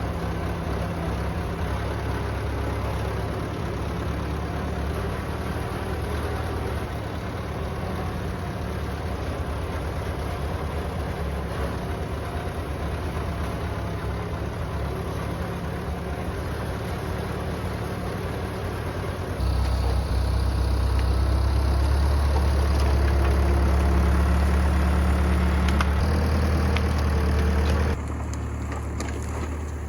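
Massey Ferguson farm tractor engine running steadily as the tractor drives along. About two-thirds of the way through it gets louder for several seconds, then drops back to its earlier level near the end.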